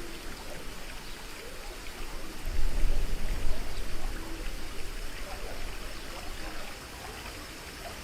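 Water rushing and splashing in the channel of a river rapids raft ride. It swells louder for a second or so about two and a half seconds in.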